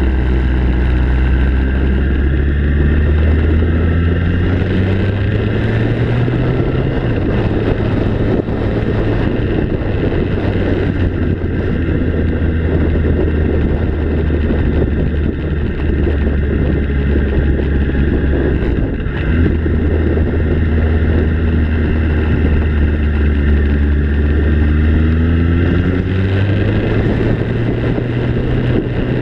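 Motor vehicle engine running steadily, its pitch rising twice as it picks up speed, with some wind noise on the microphone.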